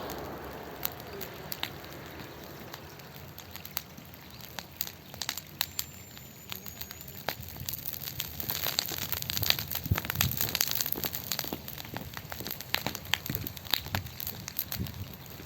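Bonfire of dried Japanese angelica tree branches and cut grass crackling, with many sharp pops and snaps that come thicker about halfway through.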